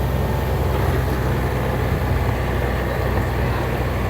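Motor vehicle running at a steady pace, a constant low engine and road drone.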